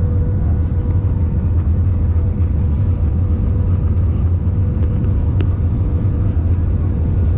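Airliner cabin noise: a steady, heavy low rumble of the engines and airflow with a faint constant hum, and a single small click about five seconds in.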